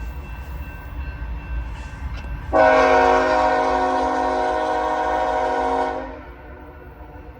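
Diesel freight locomotive's air horn sounding one long, steady blast of about three and a half seconds. It starts suddenly a few seconds in and stops before the end, over a low rumble of locomotive engines.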